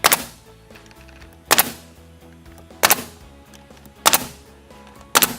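Nail gun firing five times, a sharp shot about every second and a quarter, driving nails through batten strips into siding.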